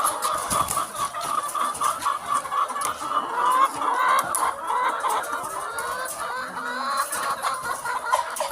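A flock of laying hens clucking continuously, many birds calling over one another at once.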